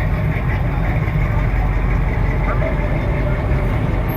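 Low, steady rumble of a car engine running, with faint voices behind it.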